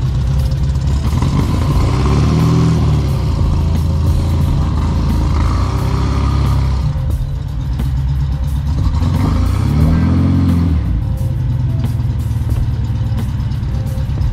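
Air-cooled flat-four engine of a 1967 Volkswagen Beetle running as the car is driven slowly. Its pitch rises and falls twice, about two seconds in and again about nine seconds in.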